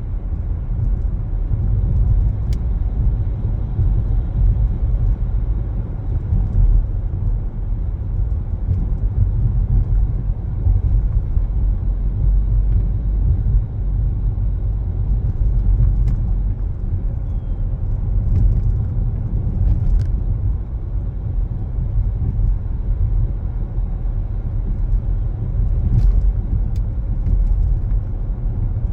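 Car driving, heard from inside the cabin: a steady low rumble of tyres and engine, with a few faint ticks now and then.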